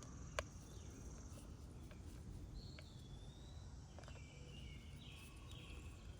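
Faint outdoor background with a low steady rumble, a single sharp click about half a second in, and bird calls chirping through the second half.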